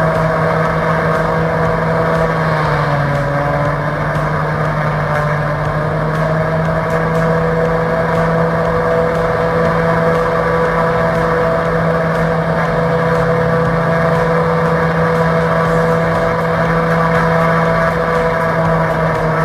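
Pratt & Whitney Canada PT6A-66B turboprop engines running steadily: a constant drone with several held tones. The pitch shifts slightly about two seconds in and starts to fall right at the end.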